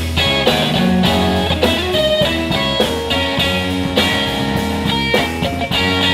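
Live blues-rock band playing an instrumental passage between vocal lines: electric guitar over bass and drum kit.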